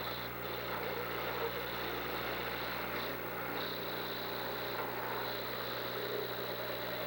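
Engines of demolition derby cars running in the arena, a steady engine noise without clear crashes, over a constant low hum.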